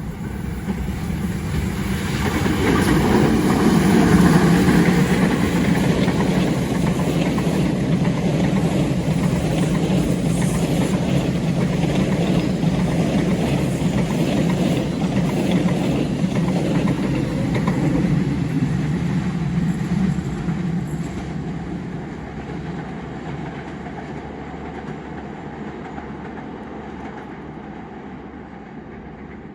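A long train rolling past on the track, its cars running over the rails. It swells to its loudest about four seconds in, holds steady, then fades away after about twenty seconds as the train moves off.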